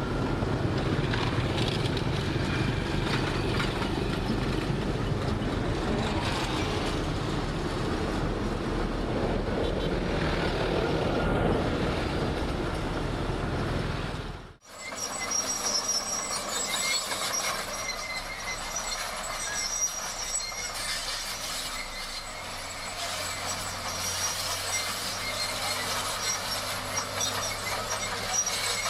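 Heavy diesel earthmoving machinery working, its engine running with a deep, dense rumble. About halfway through the sound cuts out suddenly, then comes back thinner, with steady high-pitched squealing tones over it.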